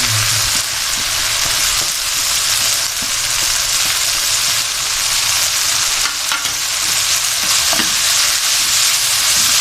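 Shredded cabbage, carrots and chicken stir-frying in hot oil in a pan: a steady sizzle, stirred, with a few faint scrapes.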